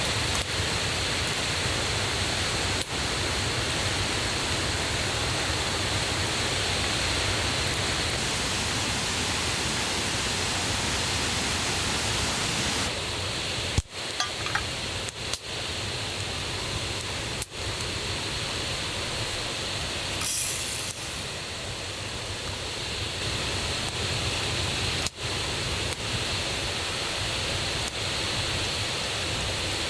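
Steady rush of a river and waterfall running high after rain. A few light clinks sound in the middle.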